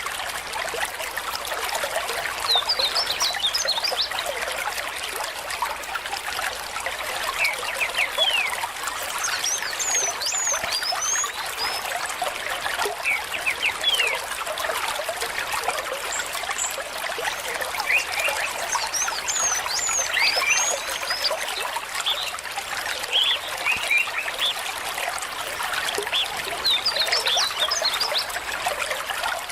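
Small stream trickling and splashing steadily, with birds chirping in short bursts of quick high calls every few seconds.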